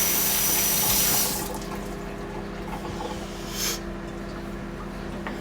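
Kitchen tap running, then shut off abruptly about a second in. A steady low hum continues underneath from the microwave running. A short hiss comes about two-thirds of the way through.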